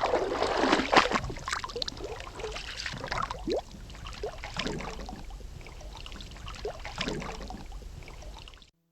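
Water splashing and trickling, with a few short rising squeaks over it, fading out near the end.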